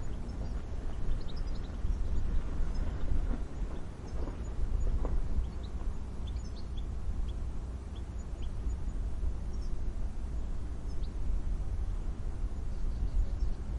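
Gusting wind with a low rumble, rising and falling, and brief high chirps of small birds scattered through it.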